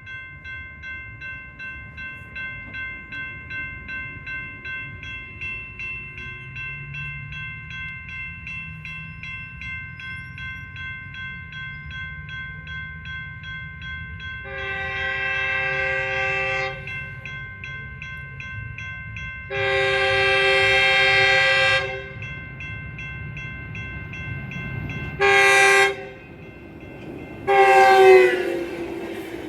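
Railroad crossing bell ringing steadily over the rumble of an approaching train, then the locomotive's air horn sounds the grade-crossing signal: two long blasts, a short one and a final long one, its pitch dropping at the end as the locomotive passes.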